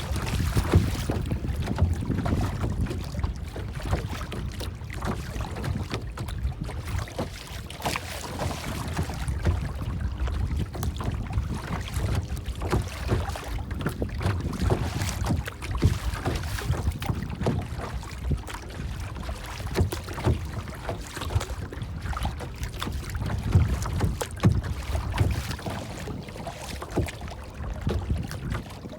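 Water lapping and splashing close by, with a steady low wind rumble.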